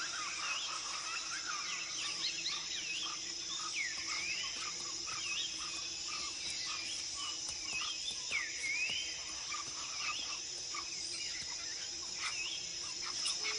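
Rainforest ambience: a steady high insect drone with many short rising and falling bird calls over it, and a faint low steady hum beneath.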